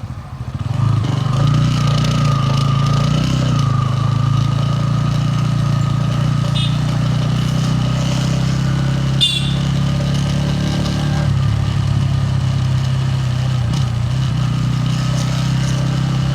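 Bajaj Pulsar N160's single-cylinder engine and exhaust running at a steady, even pitch after a brief dip in level right at the start. A short high chirp cuts in about nine seconds in.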